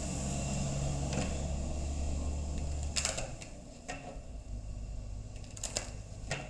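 Cards being handled and set down on a table: a handful of sharp taps and clicks, the loudest about three seconds in and a close pair near the end, over a steady low hum that drops away after about three seconds.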